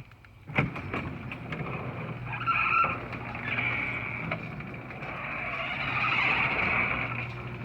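LiftMaster Security 1/2 hp chain-drive garage door opener running a door: a click about half a second in, then the motor's steady hum with the chain and door rattling, growing louder. The chain shakes a little as it runs.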